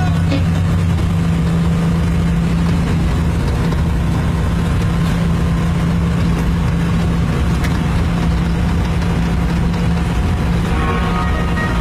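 Tata 4018 tractor-trailer truck's diesel engine running steadily with a low, even hum.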